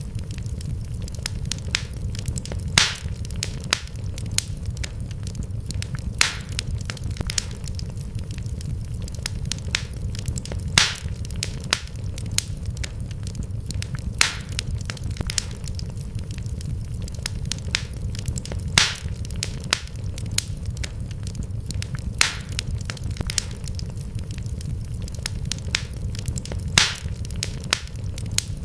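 Wood fire crackling in a fireplace: irregular sharp pops and snaps over a steady low rumble, with the louder pops coming back in the same pattern about every eight seconds.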